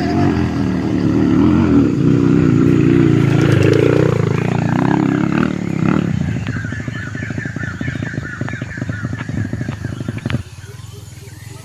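Trail motorcycle engine running, its pitch wavering up and down for the first half. It then settles into a lower, steady beat, and the sound drops off suddenly near the end.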